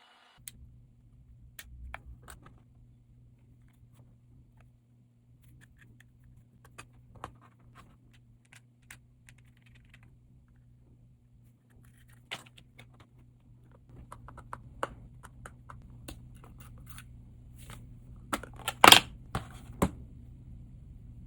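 Small tools clicking and scraping against a smartphone as it is taken apart, with scattered light clicks and a cluster of louder clicks near the end, over a steady low hum.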